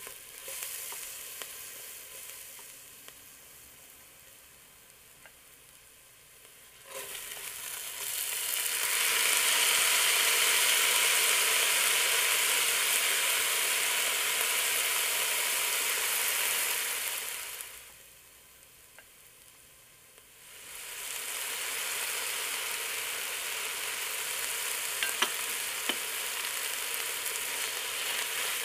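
Chopped onion sizzling in hot oil in a stainless steel pot while a spatula stirs it. In the middle a louder hissing rush comes as dry rice is poured into the oil, then the rice sizzles and is stirred through with a few small knocks of the spatula.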